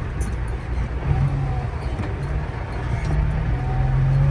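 Volvo VNL truck's diesel engine running as the truck drives slowly over a rough gravel road, its note rising about a second in and again near the end.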